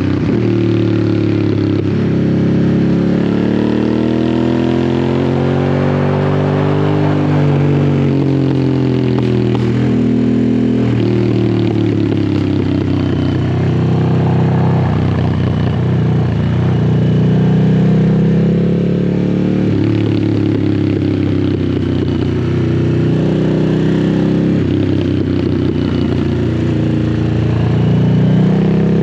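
Harley-Davidson Sportster S's Revolution Max 1250 V-twin running through a custom slip-on exhaust, held at low rpm. Its pitch rises and falls several times as the throttle is opened and closed through the bends.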